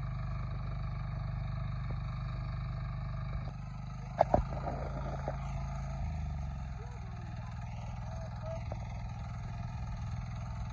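Tractor engine running steadily under load, its note shifting about three and a half seconds in and dropping lower about six seconds in. A couple of sharp knocks come about four seconds in.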